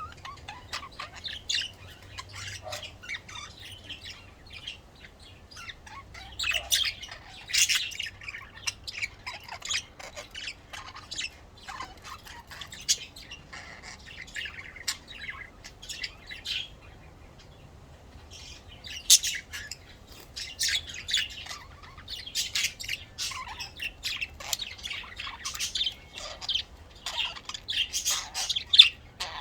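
Budgerigars chattering: a dense run of short, quick chirps and warbles, with a brief lull a little past the middle.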